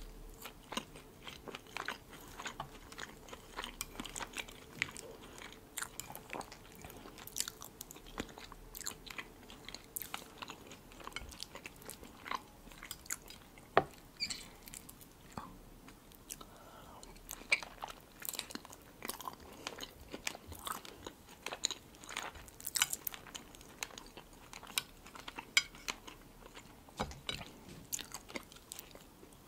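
Close-miked eating sounds: chewing and crunching of dark seeded bread and mouthfuls of salad, with many short crackling clicks throughout.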